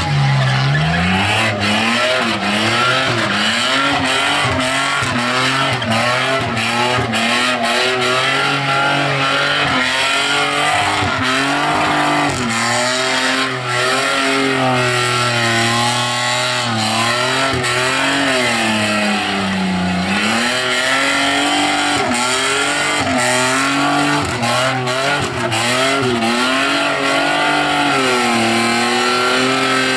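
Holden VN Commodore's 3.8-litre V6 held at high revs through a burnout, the engine note rising and falling continuously, dipping briefly a few times, over the hiss of spinning rear tyres.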